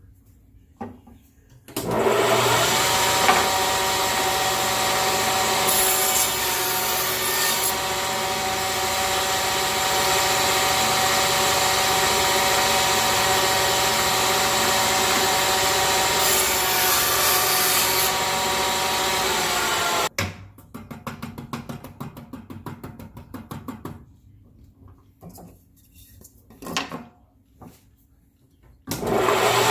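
Table saw starting up with a steady whine and cutting a notch into a wooden board, with a hissier cutting sound twice as the wood meets the blade. It is switched off about twenty seconds in and winds down with ticking that slows and fades, a few knocks follow, and it starts again at the very end.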